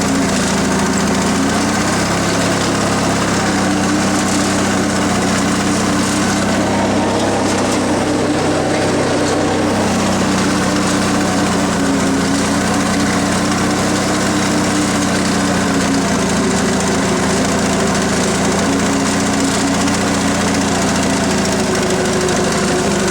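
Yardman riding tractor's 16 hp Briggs & Stratton opposed-twin engine running steadily as the tractor drives along, dipping slightly in pitch about eight seconds in before settling back.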